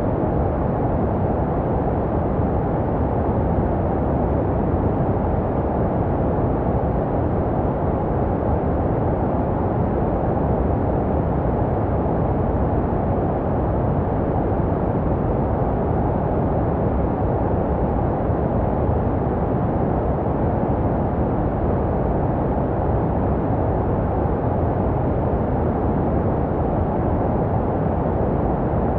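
Steady, deep, muffled white noise for baby sleep, made to resemble what a baby hears in the womb. It is an even rushing hiss with most of its weight low down and little treble, and it does not change.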